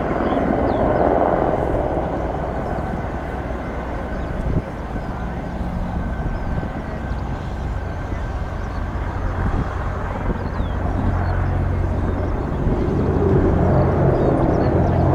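Sikorsky CH-53K King Stallion heavy-lift helicopter flying, its rotor and three GE T408 turboshaft engines giving a steady, heavy drone. It grows louder about a second in and again near the end.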